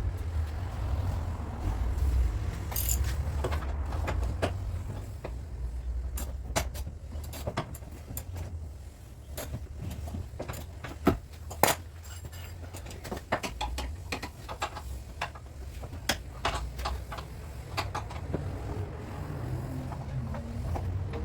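Irregular sharp clicks and knocks, metal-on-metal in character, scattered over a steady low rumble, with one louder knock about halfway through.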